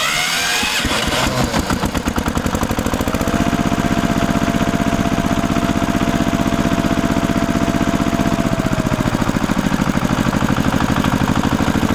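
Small engine of a DIY mini tractor starting up and then running steadily with a rapid, even chugging pulse. A faint steady whine sits over it for several seconds in the middle.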